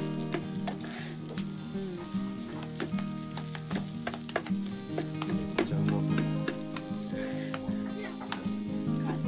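Garlic fried rice sizzling on an electric hot plate as two wooden spatulas stir and toss it, with frequent irregular clacks and scrapes of the spatulas against the pan.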